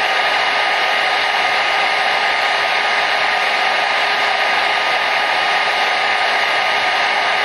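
Hair dryer running steadily: an even, unchanging rush of air, with a faint steady whine from its motor.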